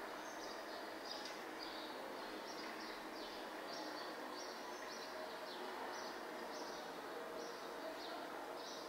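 Faint outdoor ambience with a bird repeating short, high, falling chirps, about two a second.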